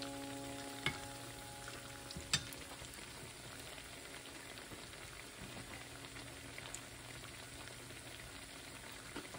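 Sabudana vadas deep-frying in hot oil in a cast-iron pot: a steady sizzle. A metal utensil clicks against the pot twice, about one and two and a half seconds in.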